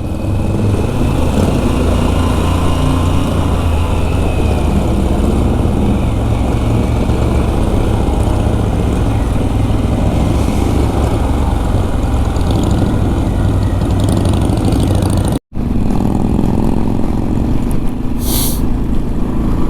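Harley-Davidson V-twin motorcycle running at road speed, engine rumble under steady wind rush on the rider's microphone, with a brief break about three quarters of the way through.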